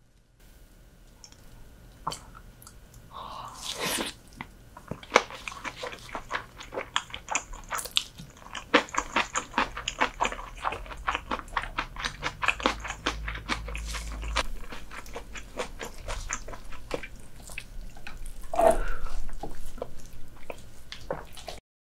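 Close-miked eating sounds of soy-sauce-marinated horsehair crab: rapid, sharp crunching and chewing with many crunches in quick succession. There are louder, noisier bites about four seconds in and near the end, and the sound cuts off suddenly.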